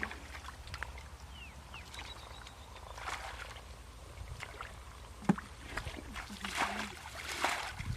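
Water sloshing and splashing in short bursts, with scattered small knocks and one sharp click a little past the middle, over a steady low rumble.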